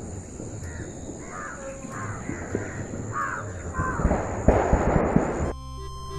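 Crows cawing, a run of short harsh calls in quick succession over a steady high-pitched tone. Around four seconds in there is a loud burst of rustling noise, and music starts near the end.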